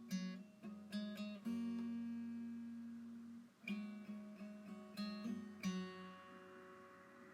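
Background music: acoustic guitar playing single plucked notes and chords. It ends on a last ringing note that fades out near the end.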